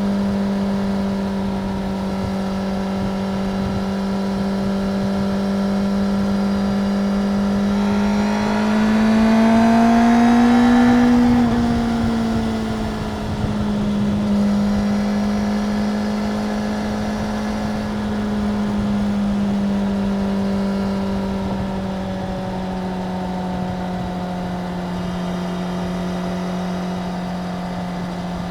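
Stock 2025 Suzuki GSX-R750's inline-four engine running at a steady, fairly high engine speed. About eight seconds in it climbs in pitch for a few seconds and gets louder, then drops back and holds steady again.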